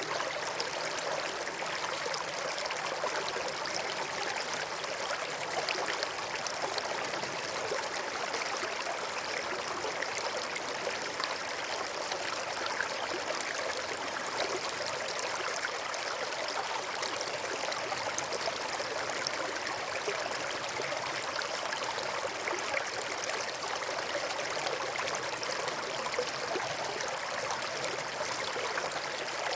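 A stream of running water flowing steadily and evenly, with no breaks or changes.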